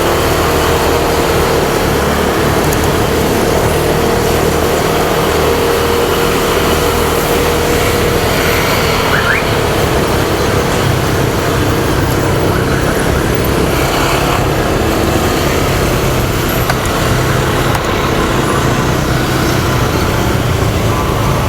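Motorcycle riding through city traffic: the bike's engine running steadily, mixed with road and traffic noise and wind on the microphone.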